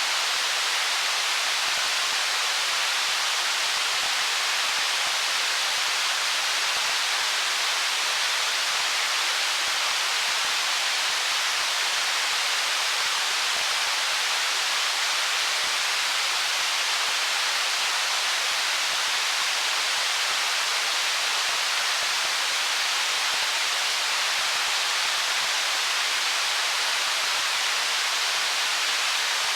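Water of a stream running over stones, a steady, even hiss that stays the same throughout, mostly high in pitch with little low rumble.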